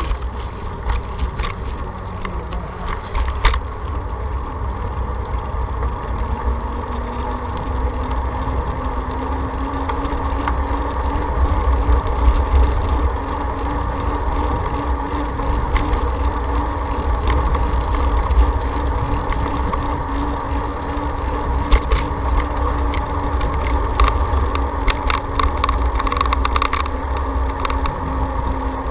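Wind noise on the microphone and road noise of a bicycle being ridden. A steady hum slowly rises in pitch from about six seconds in, and a cluster of short ticks and rattles comes near the end.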